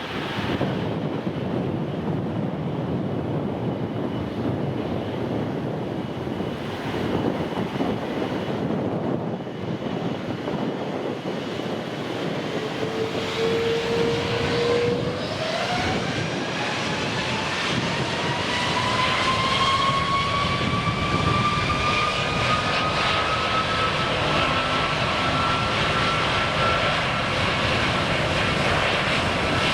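Jet airliner engines running with a steady rush; about halfway through a turbine whine comes in and rises steadily in pitch as the engines spool up, the sound growing louder.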